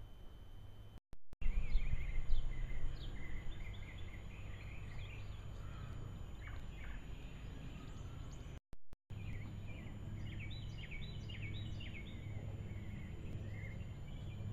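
Several small birds chirping and calling in quick, overlapping short notes, busiest late on, over a steady low rumble that is loudest about two seconds in. The sound cuts out for a moment twice.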